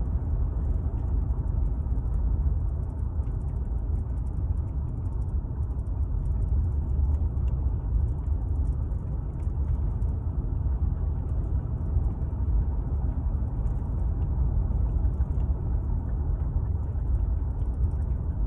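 Steady low rumble of a car being driven, heard from inside the cabin: engine and tyre road noise, even throughout.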